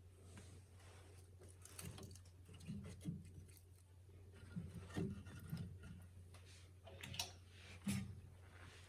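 Faint knocks and scrapes of split firewood being laid into a stove-fireplace's firebox on lit kindling, a few sharper knocks about five, seven and eight seconds in.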